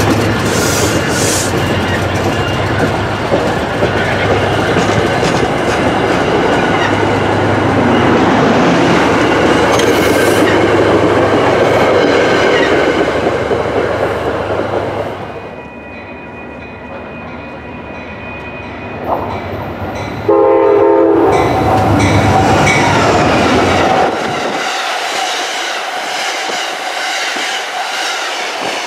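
MBTA commuter train passing close, its coaches' wheels clattering over the rail joints, then fading as the train pulls away. About two-thirds through, a short train horn blast is followed by loud passing-train noise, and near the end another train, an Amtrak Downeaster, rolls by with a lighter rumble.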